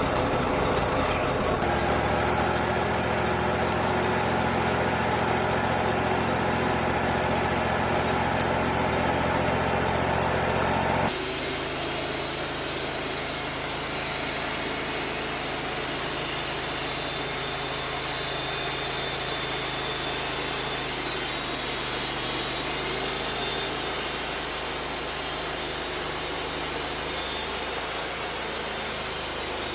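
Bandsaw sawmill's engine running steadily under load as the blade saws through cedar. About eleven seconds in the sound changes abruptly from a humming engine note to a noisier, hissing cut.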